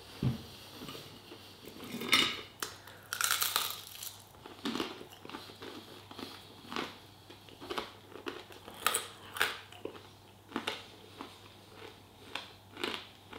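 Close-up chewing of crunchy battered waffle fries and coated chicken pieces: a run of short crunches about every second, loudest and densest two to four seconds in.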